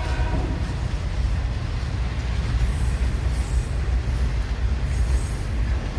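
A freight train rolling past at close range: a steady, heavy rumble of wheels and cars on the rails.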